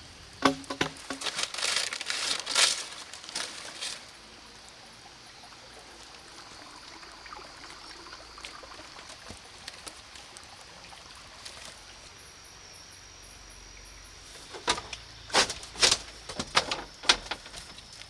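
Irregular sharp knocks and clatter, loudest in the first few seconds and again near the end, with quiet outdoor ambience between; a steady high insect tone comes in about two-thirds of the way through.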